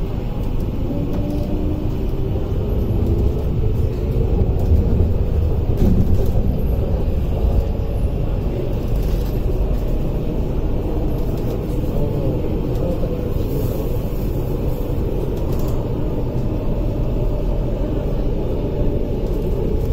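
Cabin noise of an MTR IKK (SP1900/1950) electric train in motion: a steady rumble of wheels and running gear on the track, with a faint whine over it.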